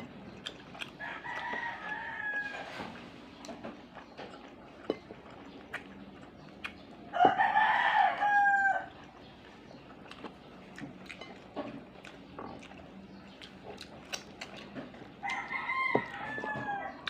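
A rooster crowing three times, each crow about a second and a half long, the middle one loudest. Light clinks of cutlery and dishes fall in between.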